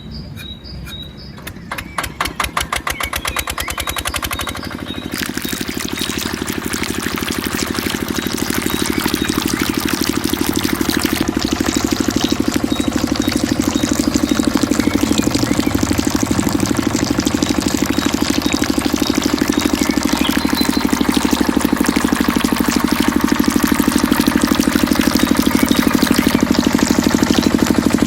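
Kubota RD 85 single-cylinder diesel engine starting: separate firing strokes for the first few seconds quicken and merge into a steady, fast-pulsing run that grows louder over about the first ten seconds.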